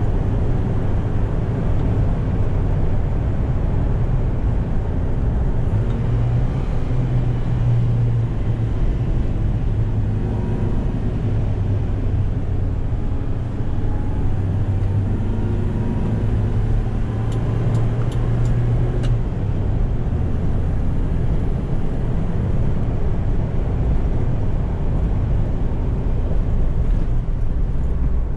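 Toyota 2Y 1.8-litre four-cylinder gas engine of a 1988 Hiace truck running steadily while driving, with road noise. Its drone drops lower about two-thirds of the way through.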